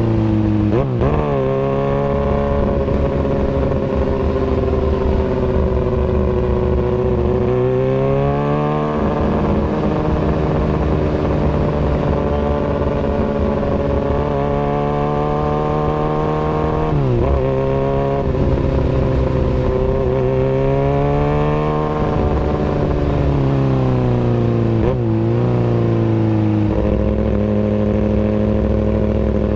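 Kawasaki Ninja ZX-636 inline-four engine through an Austin Racing aftermarket exhaust, running loudly at mostly steady engine speeds. The pitch rises gradually twice, falls away slowly once, and dips sharply and recovers three times.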